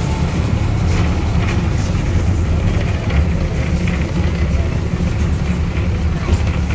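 A 2 ft 6 in narrow-gauge train running along the line, heard from on board: a steady low rumble of wheels and running gear on the rails, with faint light clicks above it.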